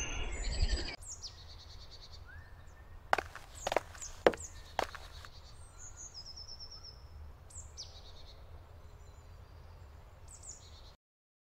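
Woodland ambience with small birds chirping at intervals, including a short run of repeated high notes. There are four sharp clicks about half a second apart near the middle.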